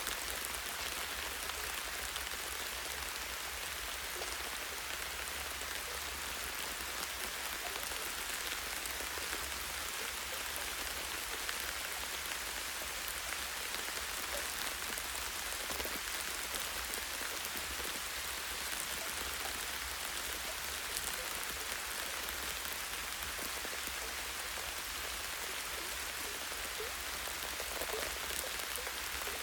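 Light rain falling steadily on a tree branch: an even hiss with fine scattered drop ticks.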